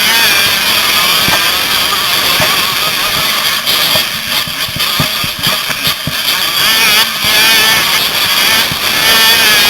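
Motocross bike engines revving hard, their pitch rising and falling as the riders work the throttle, with a few low thumps in the middle.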